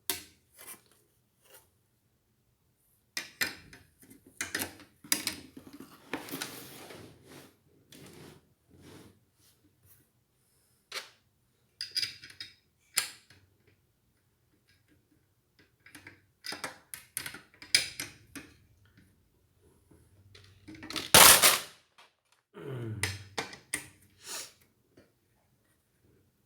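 Irregular clicks, taps and rattles of ceiling-fan parts and screws being handled while a fan blade is fitted, with one louder clatter about 21 seconds in.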